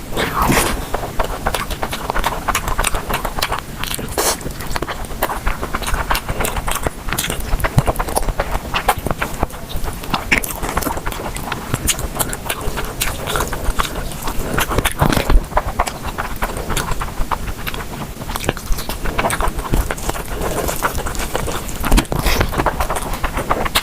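Close-miked eating sounds: chewing and biting, with a dense stream of sharp clicks and crackles.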